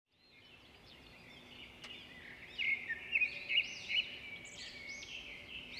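Songbirds singing and chirping in overlapping phrases, fading in at the start, with a run of louder chirps in the middle.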